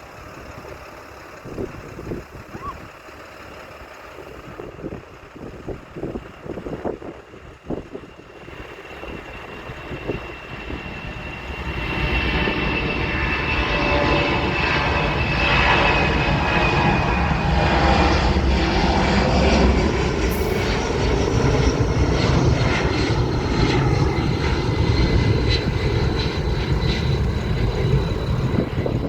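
An airplane's engines growing loud about twelve seconds in and staying loud, with a high whine that slowly falls in pitch as the aircraft passes.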